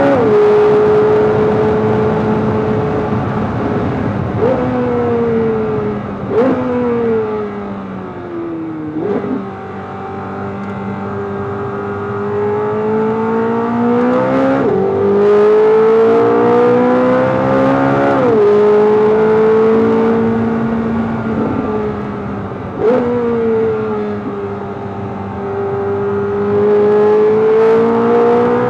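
Chevrolet Corvette C8 Z06's 5.5-litre flat-plane-crank V8 at full throttle on a race track. Under hard braking it gives three quick rising blips as the gearbox downshifts. It then revs up through the gears as the car accelerates, its pitch dropping suddenly at each upshift, with another downshift blip a little past twenty seconds in.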